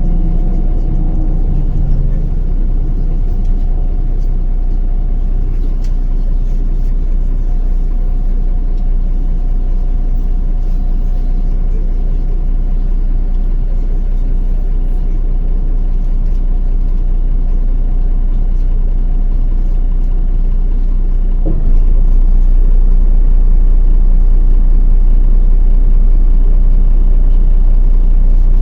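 MAZ-105 diesel city bus heard from inside while under way: a steady engine and road rumble with a strong low drone. About three-quarters of the way through, the sound changes suddenly and steps up louder.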